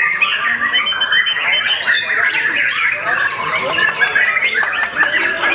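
Many caged songbirds singing over one another without pause, a dense mix of whistles, trills and harsh calls, with white-rumped shama (murai batu) contest song among them.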